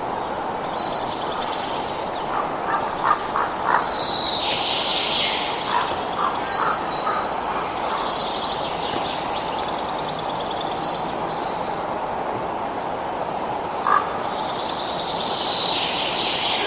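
Several songbirds chirping and singing, with short high chirps recurring every couple of seconds and two longer bursts of song, over a steady rushing background noise.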